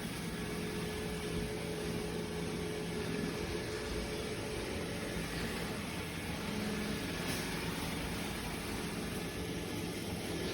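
Robot vacuum running: a steady motor hum with an even whir of suction and brushes.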